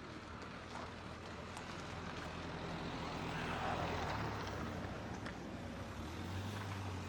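A motor vehicle's engine running, the sound swelling to its loudest about four seconds in and then falling away.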